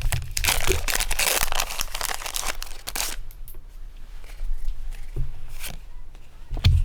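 Foil Pokémon booster-pack wrapper crinkling and tearing as it is handled for about three seconds, then quieter rustles and small clicks as the cards come out, with a short thump near the end.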